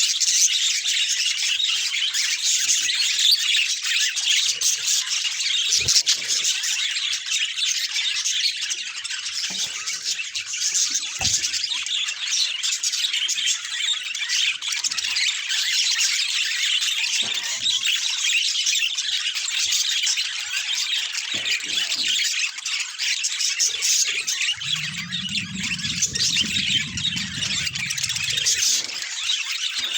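Several budgerigars chattering and warbling continuously in a dense twitter. A few soft knocks come through, and near the end a low hum runs for a few seconds.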